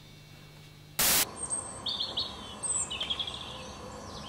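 Quiet room tone, then about a second in a short loud burst of noise, followed by small birds chirping and trilling over a steady outdoor hiss.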